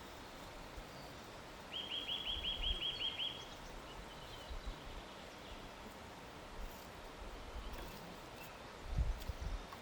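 A songbird sings a quick trill of about ten short, repeated down-slurred notes, starting about two seconds in and lasting under two seconds, over a steady forest hiss. Dull low thumps come with it and again near the end.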